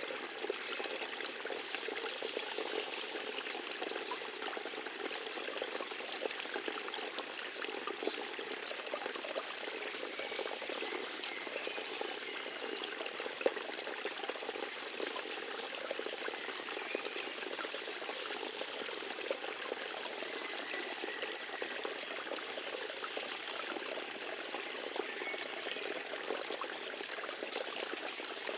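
Forest stream trickling steadily over stones, with one brief sharp tick about halfway through.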